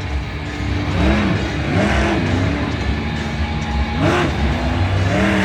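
Monster truck engine running with a heavy low rumble, its pitch rising and falling several times as the throttle is worked.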